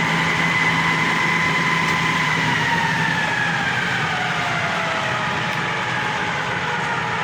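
FT-11F1 lathe running under power with a steady machine whine. From about two and a half seconds in, the whine slowly glides down in pitch as the spindle speed is turned down while it runs.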